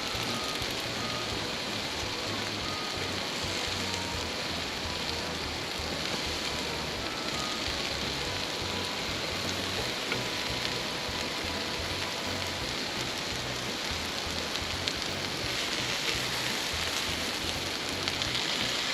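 Hoba-yaki, food grilled on a magnolia leaf, sizzling in a steady, even hiss, with faint music underneath.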